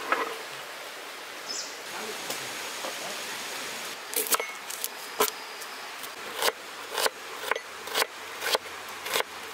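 Knife chopping onion on a cutting board. Sharp strikes come faster from about four seconds in, settling to about two a second, over a steady background hiss.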